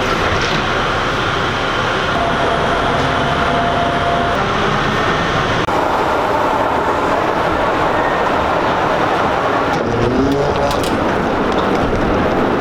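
Steady running rumble of an airport people-mover train (AirTrain) ride, with a brief faint whine early on and a cut to similar running noise about halfway through.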